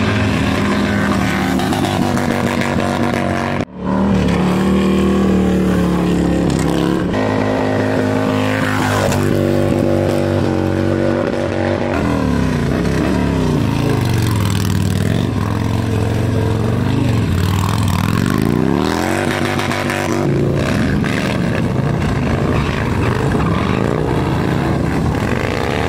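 Motorcycle engines revving hard and dropping back again and again during burnouts on the road. The sound cuts out briefly about four seconds in.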